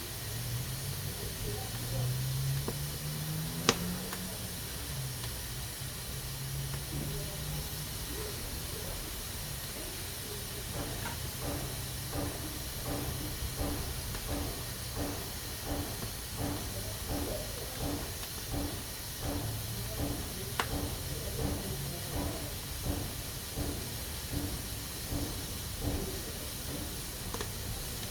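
Pressure cooker hissing steadily as steam escapes from its valve. From about a third of the way in, the hiss pulses in a regular rhythm of about two beats a second, with an occasional sharp click.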